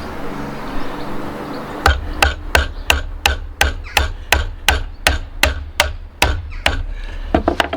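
A chisel being struck repeatedly to chop out a mortise in timber: sharp knocks about three a second, a quick few more near the end. A steady noise comes before them for about the first two seconds.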